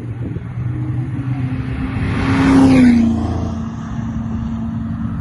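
A car driving past at speed, loudest about two and a half seconds in, its engine note dropping in pitch as it goes by.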